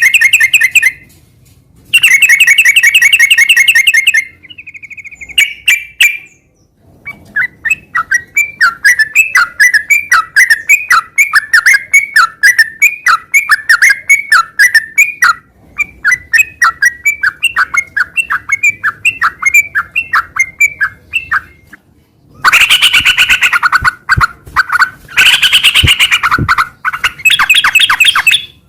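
Sooty-headed bulbul (trucukan) singing loudly in a rapid, continuous warble. It opens with fast buzzy trills, moves into a long string of quick chirped notes at a couple a second, and ends with loud stuttering bursts.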